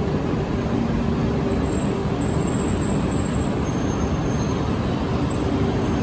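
Steady running noise of a Shinkansen train: a constant low rumble and hiss that neither rises nor falls.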